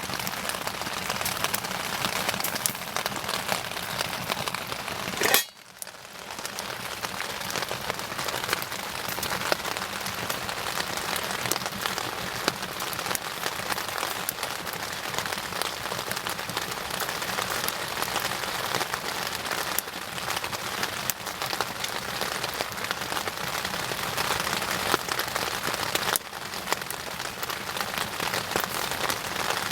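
Wood bonfire crackling and popping steadily with many small sharp snaps. One louder crack comes about five seconds in, after which the sound briefly drops away.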